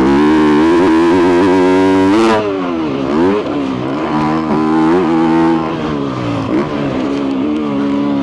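2022 Yamaha YZ250F's single-cylinder four-stroke engine with a full FMF exhaust under riding load: held at high revs for about two seconds, then the throttle is let off and the revs drop and climb again several times.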